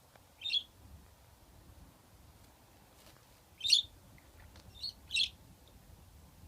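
Pet budgerigar giving four short, high chirps: one about half a second in, then three more between about three and a half and five and a half seconds.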